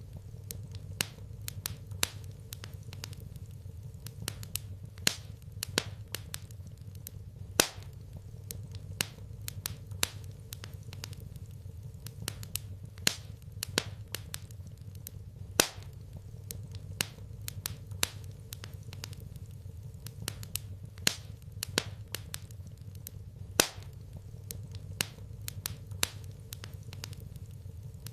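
Wood fire crackling in a fireplace: irregular sharp pops and snaps, a few a second, some much louder than others, over a low steady rumble.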